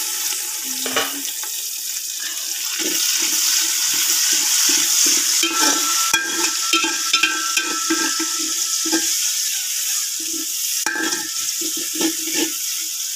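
Chopped onions, ginger-garlic and tomatoes sizzling in hot oil in a metal pot, with a steady hiss throughout. A metal spoon stirs and scrapes the bottom in many short strokes: the masala base being fried.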